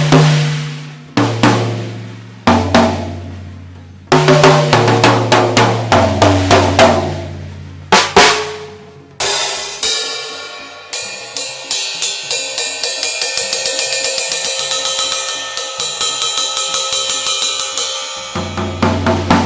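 An old acoustic drum kit being played to check its tuning: single low drum hits of different pitches ring out one at a time for about nine seconds, then a cymbal crash followed by a run of quick, even cymbal strokes, about four a second, and a low drum hit near the end.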